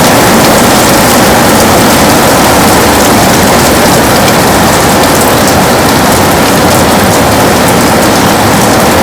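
Heavy rain falling on a window pane, a steady dense hiss with a fine patter of drops that does not let up.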